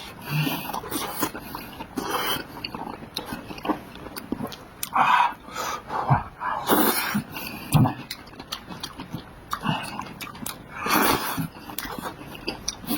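A person eating noisily: irregular chewing, smacking and slurping, with short breathy noises.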